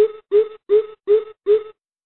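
Greater coucal giving its deep hooting call: five evenly spaced low hoots, about three a second, with the series stopping near the end.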